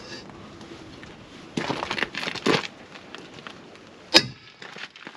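Metal clanking during work on a tractor wheel: a few scraping knocks around two seconds in, then a single sharp metallic clang about four seconds in.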